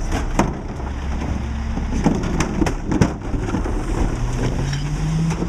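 Mack LE garbage truck's diesel engine running, with irregular clanks and knocks and a rumbling crunch from the McNeilus rear-load body. The engine note rises near the end.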